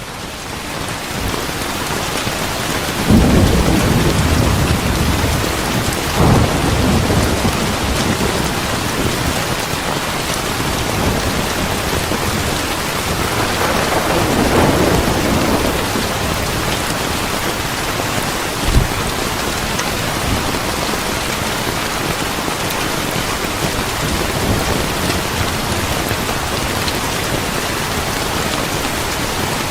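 Steady heavy rain with thunder rumbling, rolling in about three seconds in and swelling again around the middle, with a short low thump a little later.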